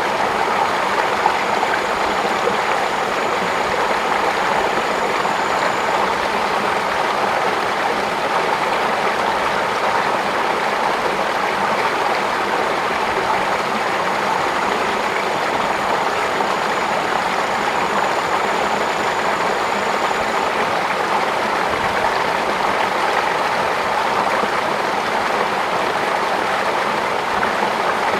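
Running water flowing steadily with an even rushing hiss. A faint, thin, high whine comes and goes twice.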